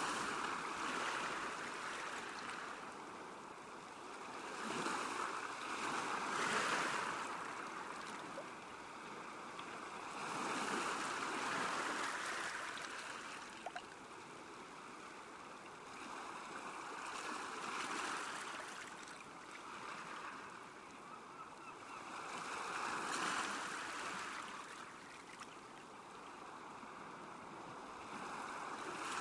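Small waves washing onto a lake shore, the water swelling and falling back in slow surges every five or six seconds.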